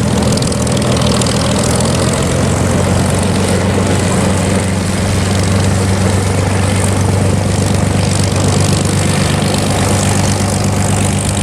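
Propeller-driven warbird's piston engine running steadily as the plane taxis, a constant low engine hum with propeller noise over it.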